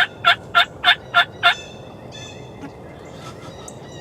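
Wild turkey yelping: a run of loud, evenly spaced yelps about three a second that stops about a second and a half in.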